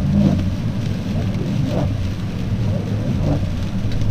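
Steady in-cabin road and engine drone of a Toyota Tundra pickup driving on a wet road, with sleet and freezing rain ticking faintly against the windshield.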